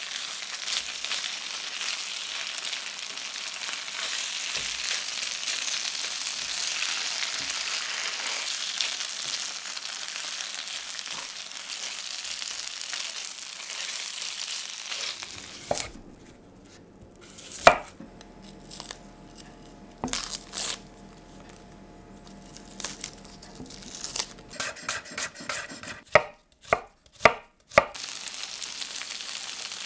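Marinated beef strips sizzling in oil in a frying pan as a spatula turns them. About halfway through the sizzle drops away, leaving a quieter stretch of scattered sharp clicks and knocks, several in quick succession near the end.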